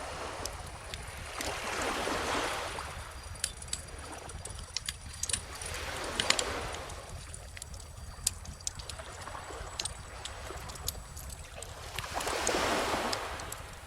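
Calm ocean waves washing onto a beach, three slow swells a few seconds apart, with a bonfire crackling and giving sharp pops throughout.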